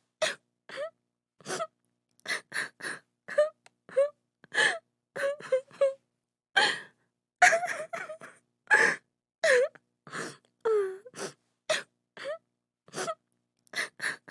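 A woman crying: short, broken sobs and gasping breaths in quick succession, some with a wavering wail in the voice.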